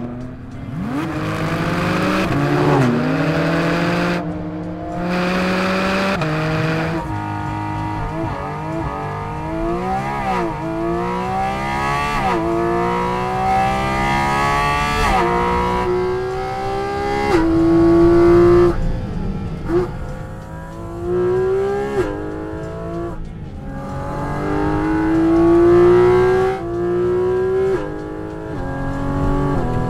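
Porsche 718 Cayman GT4 RS's naturally aspirated flat-six engine at full throttle on a race track, its pitch climbing and then dropping sharply at each upshift, several times over, with brief lift-offs between.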